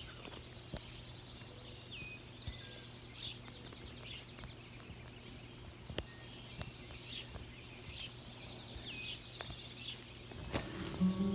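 Wild songbirds chirping in the morning. One bird repeats a high, rapid trill twice, each trill lasting a second or two, and shorter chirps and slurred notes come in between.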